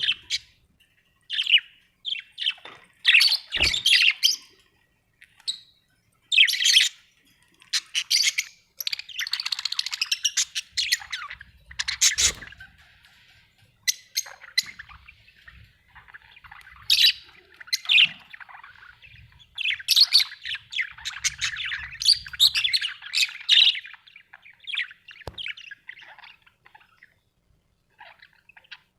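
Budgerigars chirping and chattering in short bursts, with a few squawks and brief pauses between.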